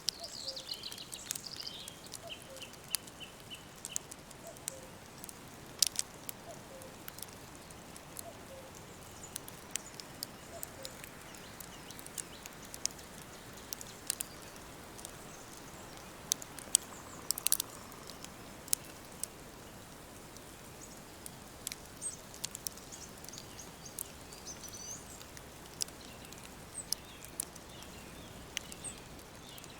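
Woodland birds singing over a steady soft hiss: a falling call and a quick run of even notes at the start, scattered high chirps later on, and faint low repeated calls in the first few seconds. A wood fire crackles throughout with frequent sharp pops.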